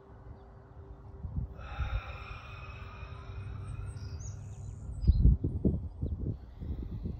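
Outdoor ambience: a bird calls for about two seconds, with a short high chirp as it ends. Then come low gusts of wind buffeting the microphone.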